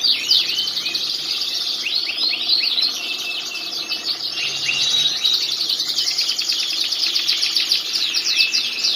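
Canary singing without a break: fast trills and rolls of quickly repeated, high chirping notes.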